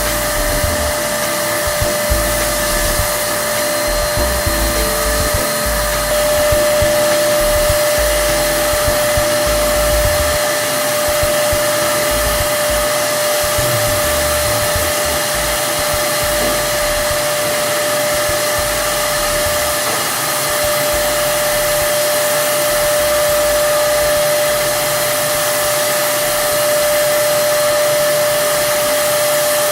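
Electric spray gun's motor running without a break while Plasti Dip is sprayed on, a steady whine over an airy hiss.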